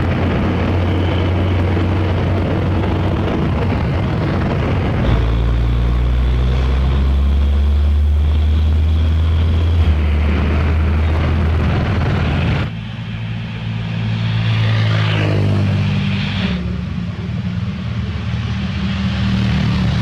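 Heavy diesel engines running steadily, the engine note changing about five seconds in and dropping away briefly near thirteen seconds, followed by a short rising whine and then a steady idle.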